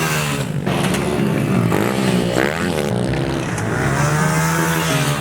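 Pit bike engines revving on a dirt track, their pitch rising and falling repeatedly as riders work the throttle.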